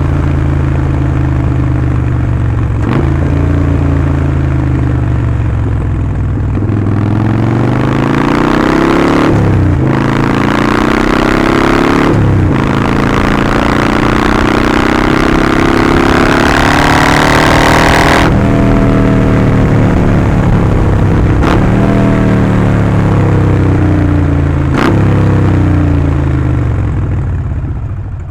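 Harley-Davidson Sportster 48's air-cooled 1200 cc V-twin through a Vance & Hines slip-on exhaust on the move: running at low revs, then accelerating hard with two quick upshifts, revs climbing to a peak past the middle. It then rolls off and slows, blipping through two downshifts near the end.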